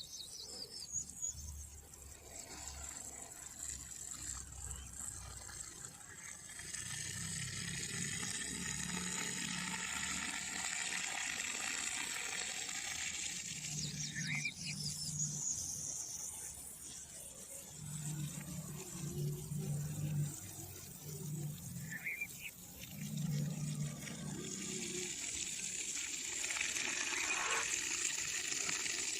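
Running water hissing and splashing steadily, swelling in two stretches, with a few short bird chirps over it and a low broken hum underneath.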